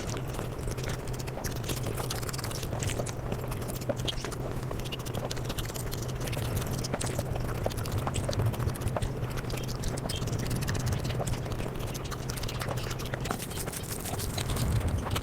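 Eating sounds played back at five times normal speed: a dense, rapid run of wet chewing and mouth clicks over a steady low hum.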